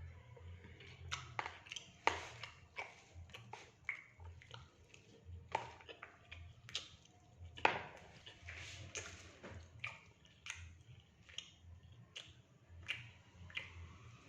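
Close-up eating sounds of someone chewing fried rice and fried fish. Irregular wet mouth clicks and smacks run throughout, with a few sharper clicks about two, five and a half and seven and a half seconds in.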